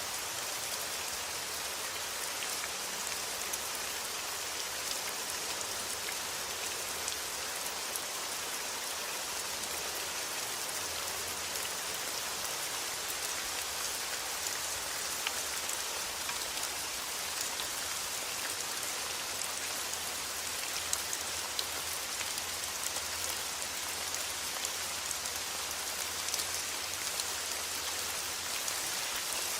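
Steady rain falling, an even hiss with many small ticks of individual drops striking a surface.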